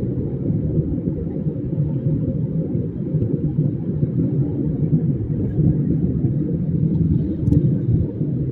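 Steady low rumble of a moving vehicle: road and wind noise, with no clear engine note.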